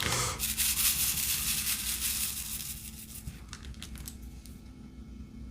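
Plastic crinkling and rustling, loudest for about the first three seconds, then a few light clicks.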